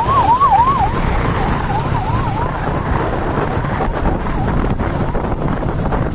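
A fast yelping siren sweeping up and down about four times a second, loud at first, then fading and dying away about four and a half seconds in, over steady road and engine rumble.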